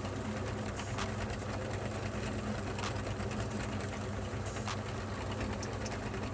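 Electric meat grinder motor running steadily with a low hum, with a few sharp cracks now and then.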